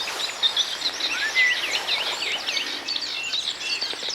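Songbirds singing, a dense, overlapping run of quick high chirps and whistles.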